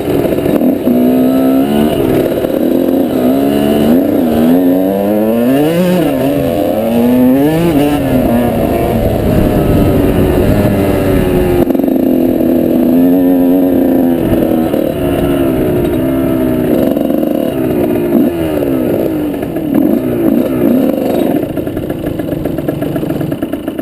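Off-road motorbike engine being ridden, its pitch rising and falling again and again as the throttle opens and closes.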